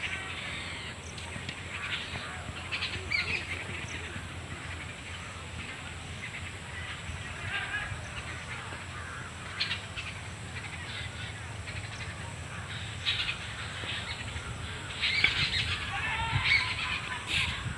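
Birds chirping and calling, many short calls scattered throughout and busiest near the end, over a steady low rumble.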